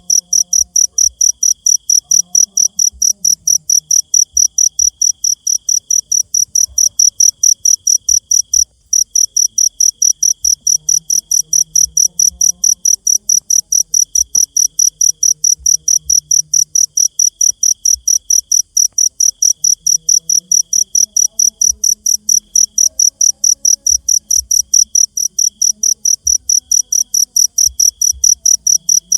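A cricket chirping loudly and steadily in high, regular chirps, several a second, with a brief break about nine seconds in. A fainter insect buzz comes and goes beneath it.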